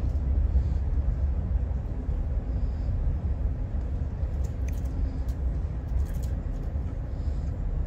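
Steady low rumble of a moving Amtrak Pacific Surfliner coach, heard from inside the passenger cabin, with a few faint clicks about five to six seconds in.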